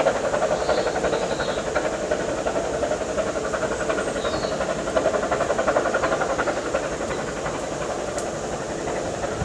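Vale of Rheidol narrow gauge steam locomotive working, a steady rapid beat with the hiss of steam.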